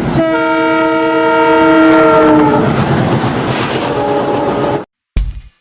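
Train locomotive horn sounding a long chord over the rumble of a passing train, its pitch dropping as it goes by, then a shorter, lower blast. The sound cuts off abruptly near the end, and drum-beat music starts.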